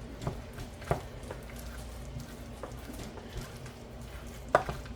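Potato salad being stirred and mashed in a bowl: soft squishing with a few light knocks of the utensil against the bowl, the clearest about a second in and near the end.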